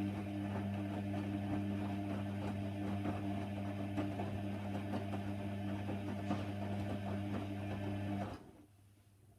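Hoover Nextra HNWL 7146 washer dryer running with a steady electrical hum and faint ticking, which cuts off suddenly about eight seconds in.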